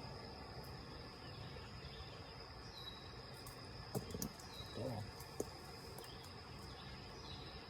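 Faint, steady high-pitched drone of insects, with a few short, falling bird-like chirps. About four to five seconds in come a couple of brief low sounds and a single click.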